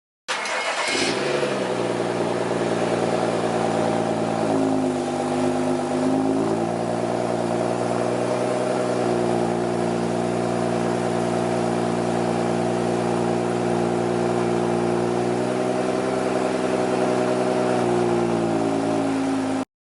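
BMW F30 335i's turbocharged inline-six exhaust running with a steady, loud drone, after a harsh burst as it cuts in. Its pitch dips and comes back briefly around five seconds in and again near the end.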